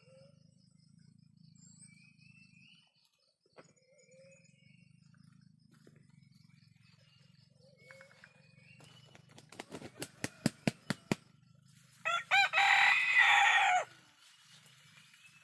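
Ayam kampung (Indonesian free-range village chicken) rooster beating its wings in a quick run of strokes, then crowing once for about two seconds near the end. Faint high chirps come and go before it.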